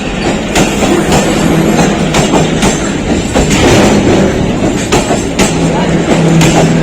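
Passenger train rolling past at close range: a steady rumble with sharp wheel clacks over the rail joints every half second or so, and a steady low drone underneath.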